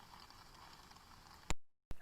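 Faint ambience of steady rain with scattered light drips. About a second and a half in it is cut by an editing splice: a sharp click, a brief dropout to total silence, then another click just before the end.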